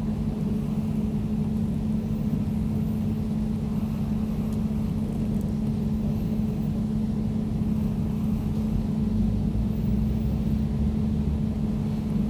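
Air conditioner running steadily: a constant low hum with a steady tone over a rumble of air and motor.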